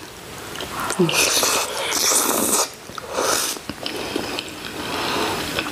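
A person eating: biting and chewing food, with two longer stretches of noisy chewing, about one second in and again about three seconds in.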